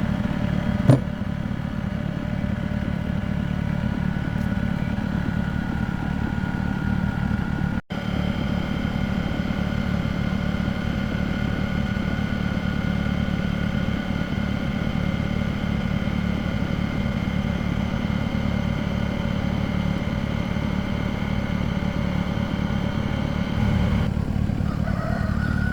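Excavator's diesel engine running steadily at an even pitch, with a sharp click about a second in and a momentary break in the sound near eight seconds.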